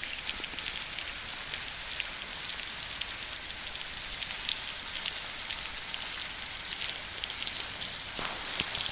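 Water of a thin waterfall splashing and dripping onto rock: a steady pattering hiss made of many small drop ticks, like rain.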